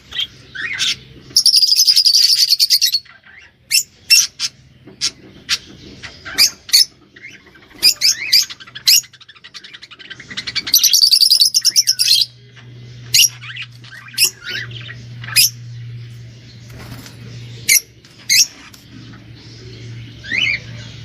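Cage songbird singing: short high chirping notes with two long, fast rolling trills, about a second and a half in and again about ten and a half seconds in. A faint steady low hum runs underneath.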